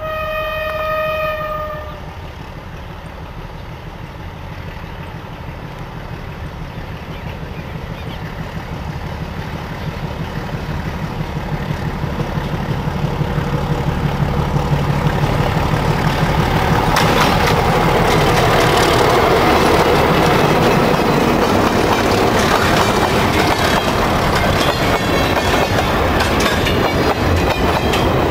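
Freight train hauled by two Alco RSD35 diesel locomotives: a single horn blast of about two seconds at the start, then the engines' rumble growing steadily louder as they approach and pass. After that the freight cars roll by close, their wheels clattering over the rail joints.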